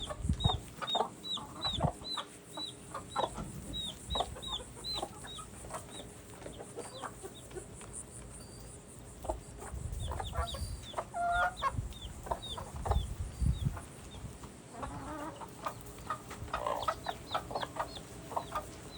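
Chicks peeping in quick runs of short, high calls, with hens clucking lower and a few low rumbles.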